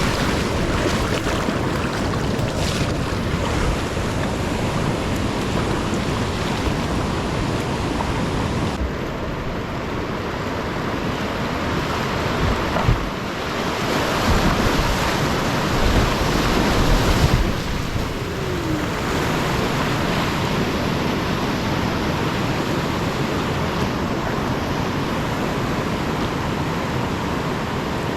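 Whitewater rapids on a creek rushing steadily, with louder surges of splashing near the middle.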